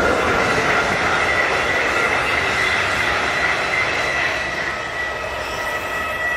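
A train running past at close range: a steady rumble and hiss from the wheels on the rails, with a high squeal held through it, easing off slightly near the end.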